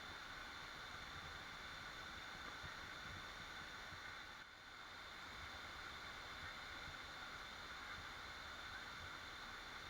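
Waterfall rushing, a steady even noise of falling water that dips briefly about halfway through.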